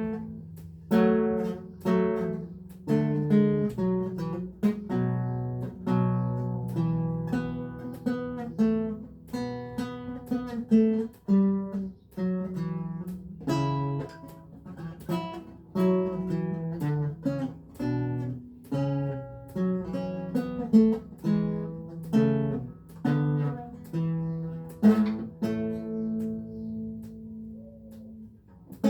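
Renaissance lute playing German Renaissance music: a flowing run of plucked notes and chords, each ringing and fading, closing on a longer chord that is left to ring out near the end.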